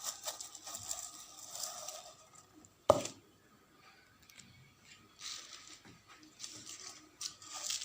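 Kitchen utensil sounds: a spoon scraping and stirring in a bowl, with one sharp knock against the dish about three seconds in and a few short scrapes near the end.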